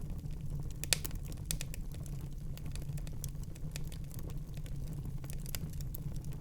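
Fire crackling in a fireplace: irregular sharp pops and snaps over a steady low rumble, with one louder pop about a second in.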